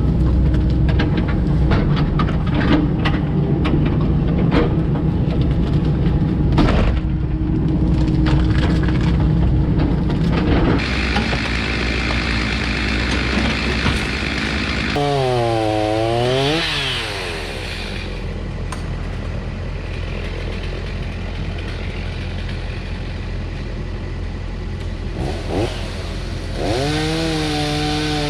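Komatsu PC88 compact excavator's diesel engine working under hydraulic load while taking down a rotted tree, with cracks and knocks of wood early on. About halfway through, the engine pitch sags and recovers as it lugs.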